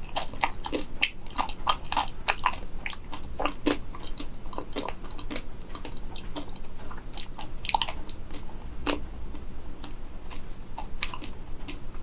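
Close-up chewing of a chocolate-coated banana, its crisp chocolate shell cracking in many sharp crunches. The crunches come thick and fast for the first few seconds, then thin out to scattered ones.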